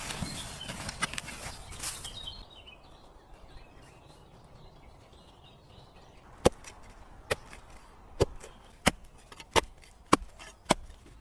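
Wood being chopped: a series of seven sharp strikes, evenly spaced a little under a second apart, starting about six seconds in. Before them, a noisy hiss for the first two seconds.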